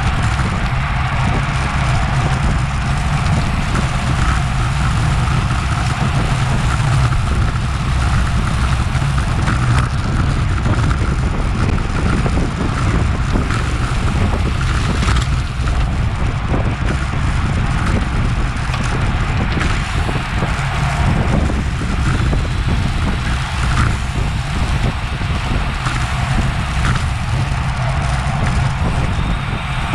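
Wind rushing over the action camera's microphone on a bicycle moving at race speed, a steady rumbling noise with road and tyre hum underneath.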